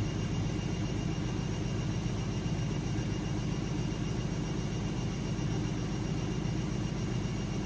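AEG Lavamat 6610 washing machine running steadily: a continuous low rumble from the drum and motor with a steady motor hum over it.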